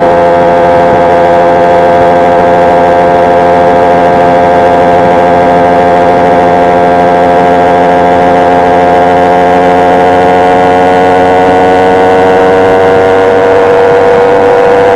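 Simson SR2 moped's two-stroke engine running at steady high revs: a loud, high buzzing whine whose pitch sinks slightly, then holds.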